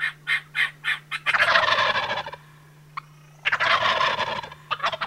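Heckler walnut-barrel crow call blown in a run of about five short harsh caws, then two long rattling calls of about a second each, with more short caws near the end.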